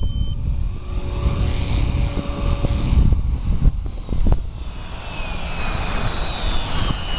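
Small RC helicopter's motor and rotor whine, buffeted by heavy wind noise on the microphone. About five seconds in, a high whine comes in and falls steadily in pitch.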